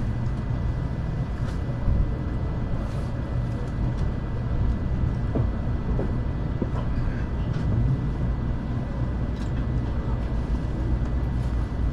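Cabin noise of a Nishi-Kyushu Shinkansen N700S train running: a steady low rumble from the wheels and running gear, with a faint steady high tone above it.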